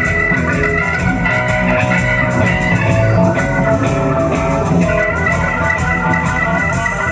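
Blues band playing live, with guitar and drums.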